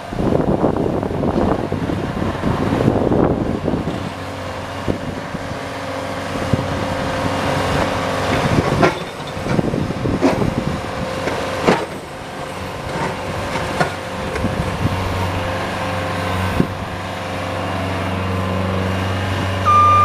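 Engine of a snowplowing vehicle running while it clears a driveway. There is a rough stretch of noise at first and several sharp knocks in the middle, then a steadier low engine drone from about 15 seconds in.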